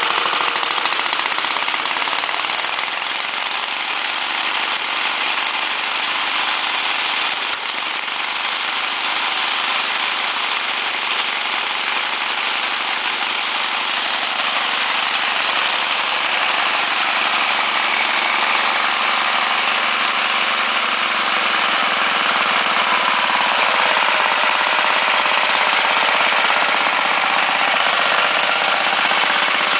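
Acme VT-88 15 hp V-twin diesel engine on a BCS walk-behind tractor running hard with a loud, rattling clatter. It grows slightly louder about two-thirds of the way in.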